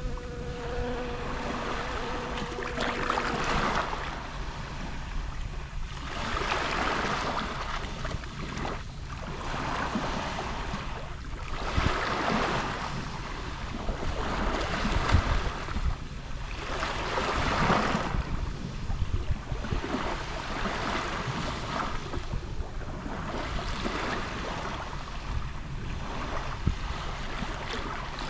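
Small sea waves lapping and washing up on a shore, each swell rising and falling every two to three seconds.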